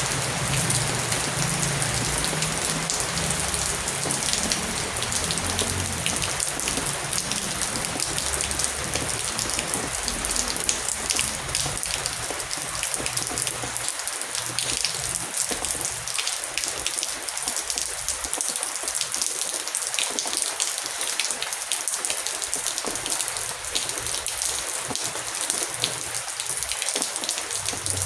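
Heavy rain falling steadily, a dense hiss of drops. A low rumble sits under it for the first half and fades out about halfway through.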